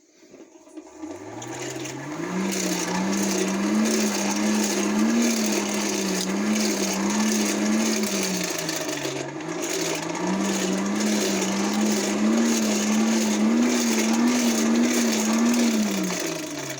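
Small electric motor spinning up over the first couple of seconds and running at a steady, slightly wavering pitch. It sags and recovers once about halfway through, then winds down near the end. It is a power tool used to finish a freshly beeswaxed forged piece.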